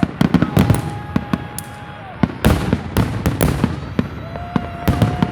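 Fireworks going off in rapid succession: many sharp bangs close together, with a steady whistling tone heard twice underneath.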